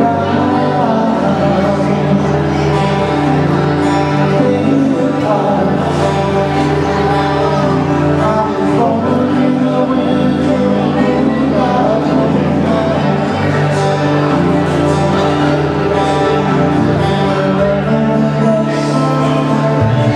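Hawaiian music played by a band, with singing.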